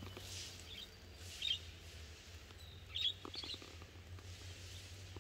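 Small birds chirping: a few short, high chirps about a second in and again around three seconds in, over a low steady hum.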